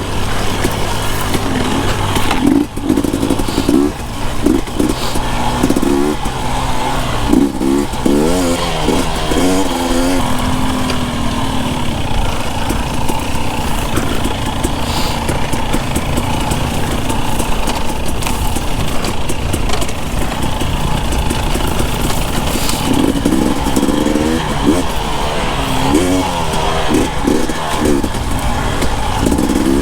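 Two-stroke Husqvarna TE 250i enduro dirt bike engine being ridden, its pitch rising and falling with the throttle as the rider works through the trail.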